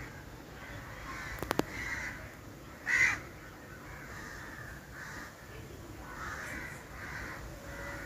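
Birds calling again and again over the steady road noise of a moving auto-rickshaw. There is a sharp double click about one and a half seconds in and a louder call about three seconds in.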